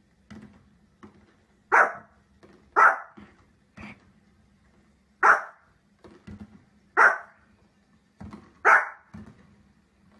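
Small fluffy dog barking: five sharp, loud barks spaced one to two and a half seconds apart, with quieter short barks and huffs between them.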